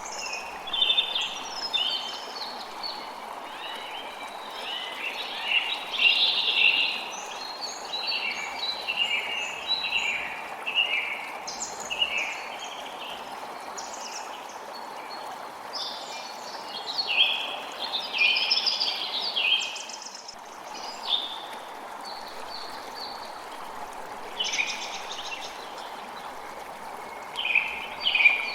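A creek flowing steadily, with songbirds singing over it in short chirping phrases, with a lull in the birdsong for a few seconds past the middle.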